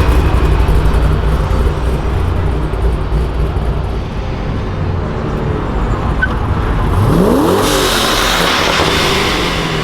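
Car engine rumbling at low revs, then revving up sharply about seven seconds in, followed by about two seconds of broad rushing noise.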